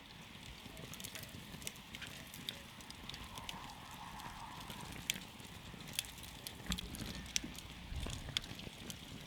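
Wood campfire crackling: irregular sharp pops and snaps over a low, steady rumble of burning.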